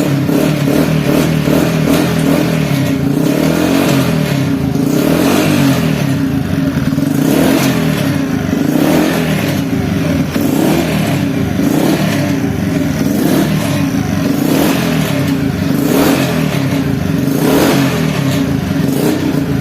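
Motorcycle engine idling and being blipped repeatedly through its exhaust, the revs rising and falling about every one to two seconds.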